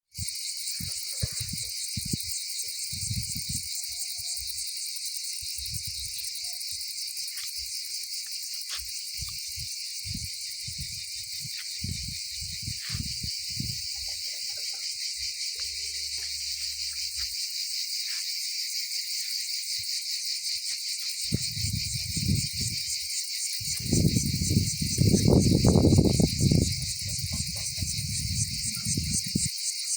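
A dense, steady chorus of chirring insects, finely pulsing and high-pitched. Wind buffets the microphone in low rumbling gusts, loudest in the last third.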